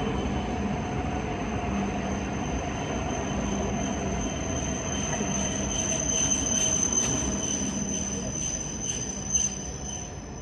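JR East E7 series Shinkansen rolling slowly into the platform as it slows for a stop, with a high steady squeal and a run of light clicks from the wheels over the rails. The sound fades near the end as the last car passes.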